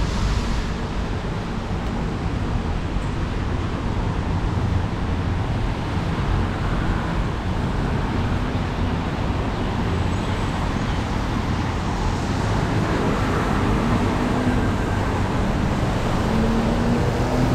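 Steady city street traffic noise: a continuous low rumble of motor vehicles, with a passing engine's hum showing up faintly near the end.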